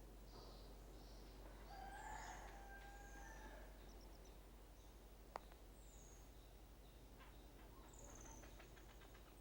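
Faint forest bird calls: short, high chirps that slide downward, repeated every second or so. A couple of lower whistled notes come about two to three seconds in, and a single sharp click just after five seconds.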